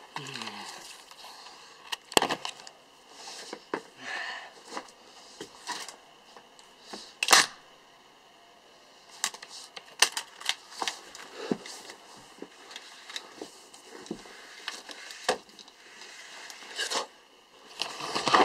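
Scattered clicks and brief rustles of handling noise, with quiet stretches between; the loudest clicks come about 2, 7, 10 and 15 seconds in.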